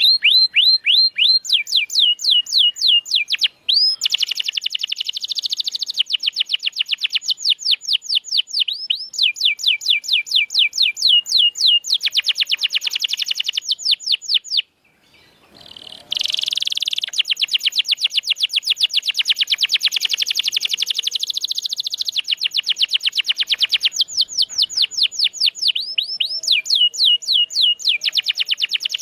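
Domestic canary singing long, fast trills of quickly repeated sweeping notes, switching from one trill to the next, with a short pause about halfway through. Recorded song of this kind is played to coax a silent canary into singing.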